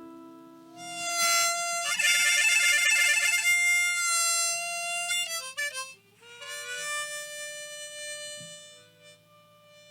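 Harmonica playing a slow instrumental opening of long held notes, with a wavering, trilled passage about two seconds in and a short run of notes sliding down about halfway through.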